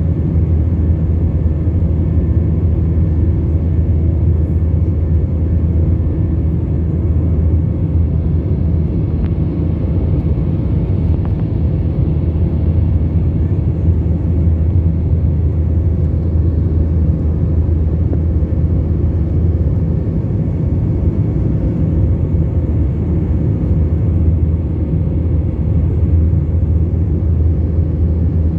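Steady cabin noise inside a Turkish Airlines Airbus A321: an even, deep rumble of engines and airflow with faint steady hums over it, unchanging throughout.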